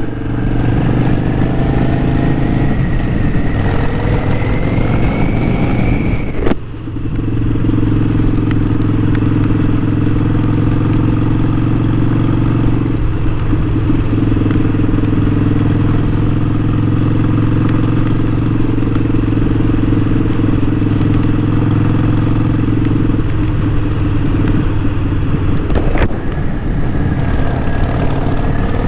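Harley-Davidson Sportster 1200's air-cooled V-twin riding along, revs rising for the first six seconds. About six and a half seconds in there is a brief drop with a click, as at a gear change, then the engine runs steadily at an even speed. Near the end the revs climb again.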